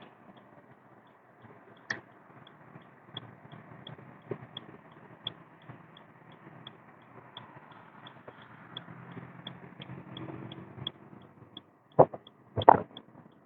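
A car driving, with low, steady road and engine noise. A light, regular ticking comes about three times a second through most of it, and two loud sharp knocks come near the end.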